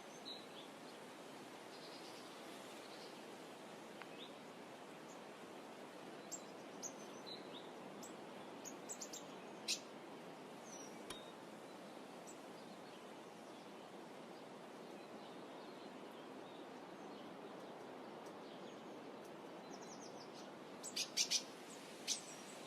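Faint outdoor ambience: a steady hiss of background noise with small birds chirping now and then in short high notes. Near the end comes a quick run of sharper clicks.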